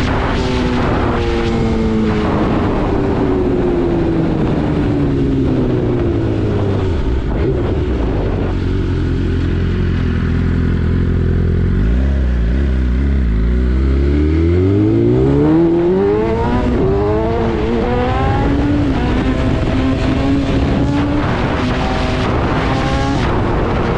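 BMW S 1000 RR inline-four engine, its pitch falling slowly as the bike slows. It runs low and steady for a few seconds, then climbs again in several rising sweeps with gear changes about halfway through, and settles into steady running near the end.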